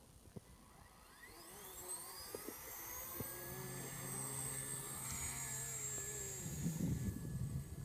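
Master CP electric RC helicopter spooling up, its motor whine rising in pitch over a couple of seconds, then holding a steady high whine with a low hum underneath as the rotor comes up to speed. Near the end the high whine drops away suddenly and a rush of low noise comes in.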